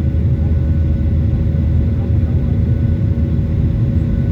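The jet engines of a Boeing 737-800 (CFM56 turbofans) running at takeoff power, heard as a steady, loud low drone with a few held tones above it. It sounds as it would from inside the passenger cabin.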